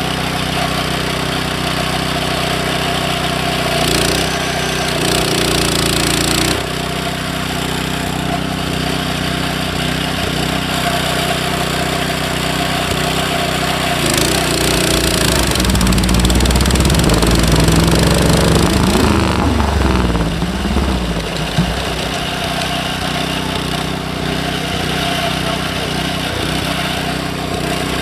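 Speedway motorcycle's single-cylinder engine running at a steady idle. It is revved briefly about four seconds in, then revved up and down several times from about fourteen seconds before settling back to idle.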